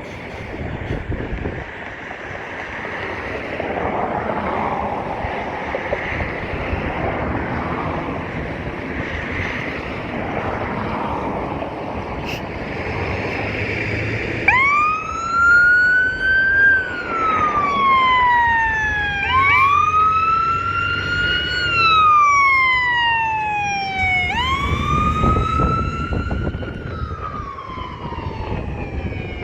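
Fire engine siren on a responding fire truck: it sweeps up quickly and then falls slowly in pitch, repeating about every five seconds, starting about halfway through. Before the siren, a steady rushing noise of traffic and wind.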